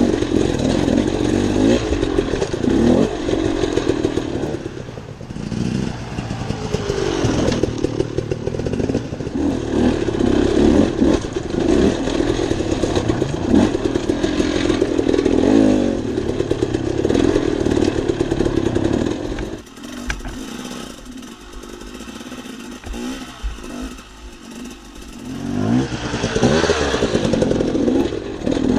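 Dirt bike engine running under a rider on a trail, its pitch rising and falling with the throttle, with some rattling. About two-thirds of the way in it drops to a quieter, lower note for several seconds, then picks up again.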